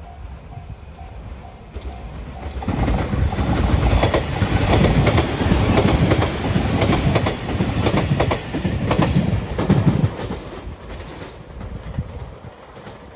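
Level crossing alarm bell ringing in steady pulses about twice a second, then drowned out as a JR Shikoku Shiokaze limited express electric train passes at speed with rapid wheel clicks over the rail joints for about seven seconds before fading away.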